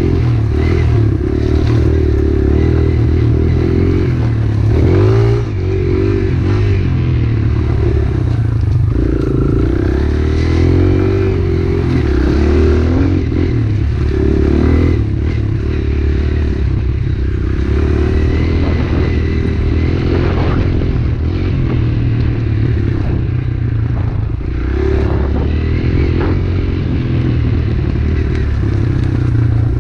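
Pit bike's small engine running continuously while being ridden, its pitch rising and falling with the throttle, with rattling and clatter over it.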